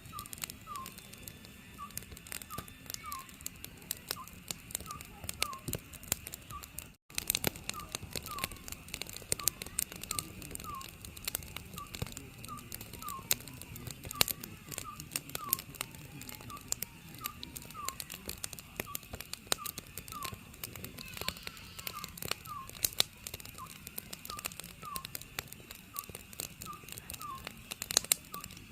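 Oriental scops owl calling over and over, a steady series of short, falling whistled notes, about one or two a second. Under it, a wood fire crackles with frequent sharp pops and snaps.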